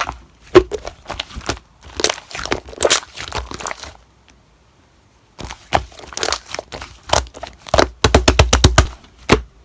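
Slime being pressed and poked by hand, giving sharp crackling pops. The pops come in scattered clusters, stop for about a second and a half in the middle, then run quickly, several a second, near the end.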